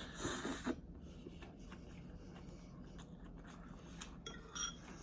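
Close-miked eating of rice noodles: a short hissy slurp at the start, then soft clicks of chewing, and one sharp utensil click about four and a half seconds in.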